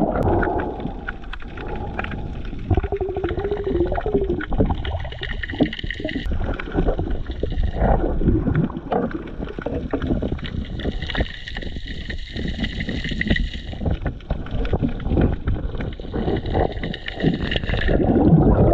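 Underwater sound while diving: bubbles gurgling and the diver's breathing hissing in and out, over a low rumble with many small clicks and knocks.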